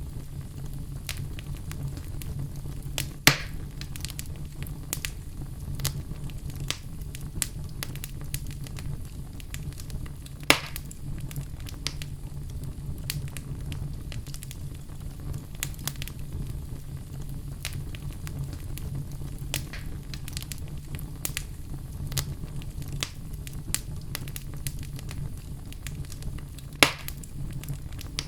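Log fire burning, with a steady low rumble of flames under frequent small crackles and three loud pops scattered through.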